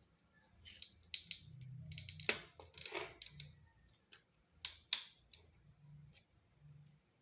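Small plastic and metal clicks and brief scrapes from handling the parts of a laptop DVD drive, with a few sharper clicks about two seconds in and a close pair near five seconds.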